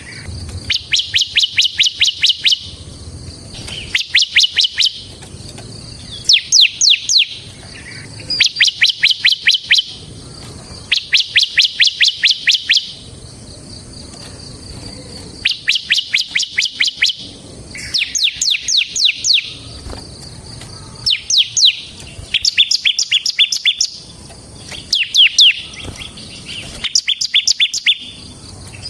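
Bar-winged prinia (ciblek) singing its rapid drilling "ngebren" song: bursts of quick, sharply falling high notes, each about a second or two long, repeated with short pauses.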